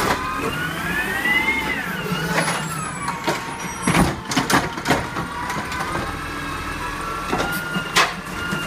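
Garbage truck working at the curb, a whine from its hydraulics or engine rising and then falling before holding steady, with a few sharp knocks and bangs, the loudest about four and eight seconds in.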